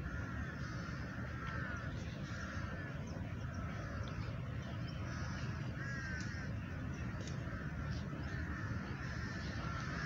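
Birds calling repeatedly in short, downward-curving, crow-like calls, one or two each second, over a steady low rumble.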